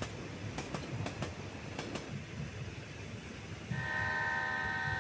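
A moving train runs with a low rumble, and its wheels click sharply over rail joints in the first two seconds. About three and a half seconds in, the locomotive horn sounds one steady note.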